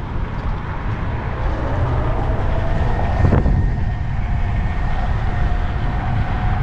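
Steady road and wind noise while riding a scooter in traffic, with a faint whine held underneath and a brief knock about three seconds in.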